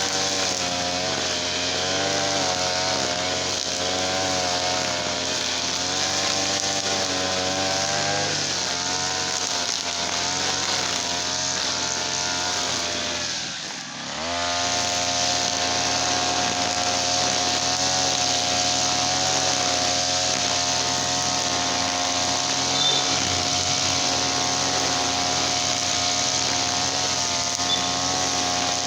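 Small petrol engine of a brush cutter running, its pitch wavering up and down. About halfway through it briefly drops in speed and level, then picks up and runs at a steady pitch.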